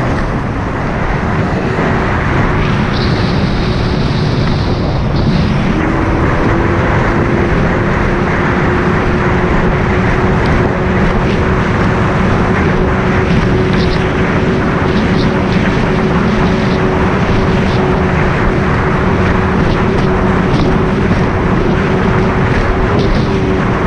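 Boat's outboard motor running steadily under heavy wind noise on the microphone, its pitch rising slightly about six seconds in.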